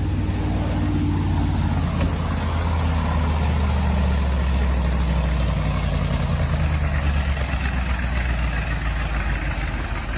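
Heavy logging truck's diesel engine running under load, with a shift in its pitch about two seconds in and a slight easing near the end.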